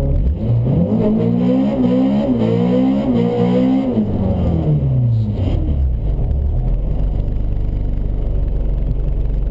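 Honda Civic VTi's B16 four-cylinder engine revving hard, its pitch climbing and dipping several times over the first four seconds. It then falls away over the next couple of seconds as the car slows, settling into a steady low drone.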